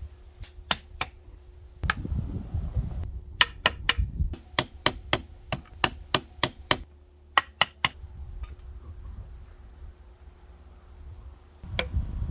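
Hammering: runs of sharp knocks, about three to four a second, stopping and starting again several times.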